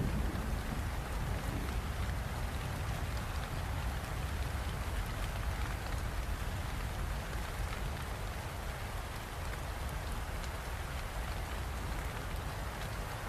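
Steady rainfall: an even hiss of drops hitting surfaces, with fine ticks of individual drops and a low rumble underneath.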